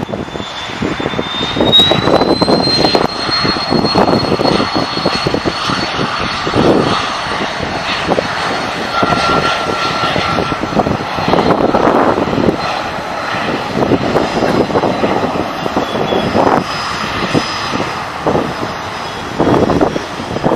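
Airliner engines running loud, a high turbine whine rising in pitch about a second in and then holding steady over an uneven roar.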